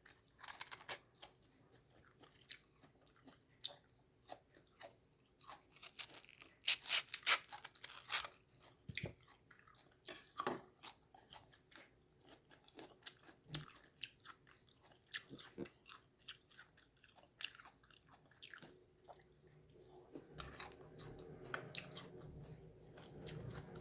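A person chewing and crunching bites of crisp, firm mango, with wet mouth sounds and irregular crunches; the loudest crunching comes about six to eight seconds in.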